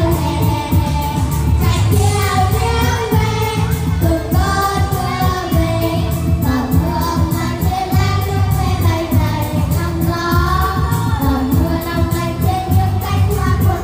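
Vietnamese song: a sung melody over an accompaniment with a steady beat and a strong bass line.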